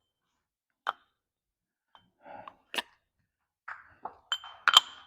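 Scattered sharp metal clinks and handling noise as a ball joint press's cups and a new lower ball joint are fitted together, the loudest clink near the end.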